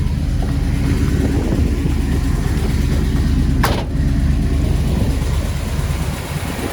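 Custom-built 455 cubic inch Pontiac V8 with headers and dual exhaust idling with a steady low rumble. A single sharp knock sounds near the middle.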